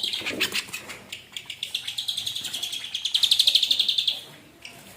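Ashy drongo singing: a fast, rattling run of rapidly repeated high notes that swells loudest about three seconds in, then drops away near the end.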